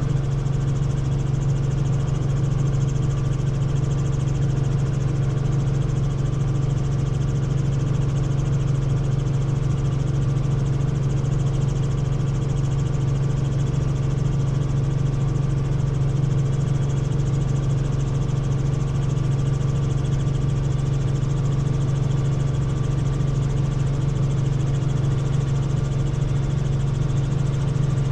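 Helicopter in flight: a steady, unchanging drone of engine and rotor, dominated by a strong low hum.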